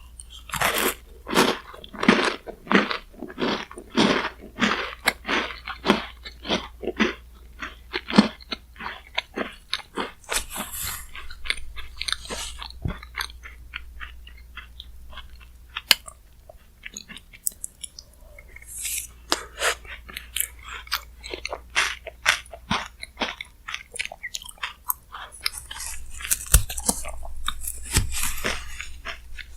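Close-miked chewing and crunching of Chic Choc cookie bingsu, shaved ice topped with chocolate-chip cookies. Steady chews run about one and a half a second at first, then give way to sparser crunches and mouth clicks, with crunching picking up again twice.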